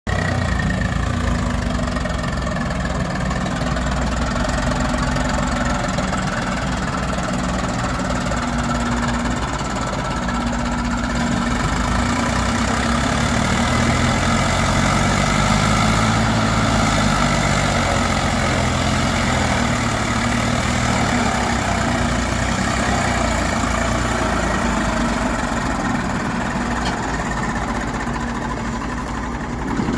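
Tractor diesel engine running steadily with a knocking clatter, its pitch shifting a little through the middle as the load or throttle changes, while pulling a heavily loaded trolley.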